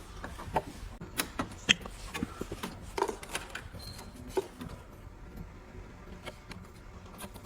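Light clicks and taps of hands handling an inkjet printer's plastic casing while plugging in the screen's ribbon cable, scattered and irregular, thinning out after about four and a half seconds.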